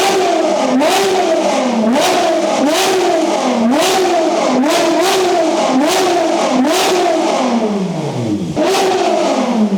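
A car engine revved over and over, too loud, its pitch climbing and falling back about once a second, with sharp cracks from the exhaust on many of the revs. The revs sag away near the end, then it is blipped once more.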